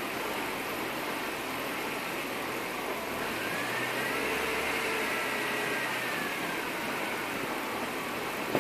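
BMW E36 M3 Evo 3.2's straight-six engine at a rough idle, the revs rising and falling once between about three and six seconds in: a hunting tickover.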